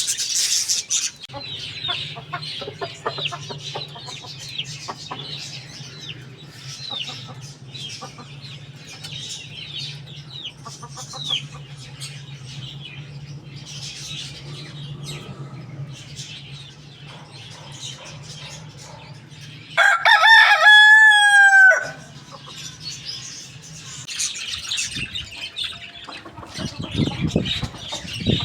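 A rooster crows once, about two-thirds of the way in: one long call of about two seconds that drops in pitch at the end. Small birds chirp throughout, over a steady low hum.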